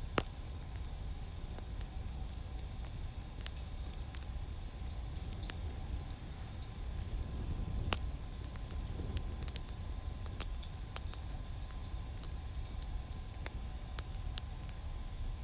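Wood fire crackling: scattered sharp pops and snaps over a low steady rumble.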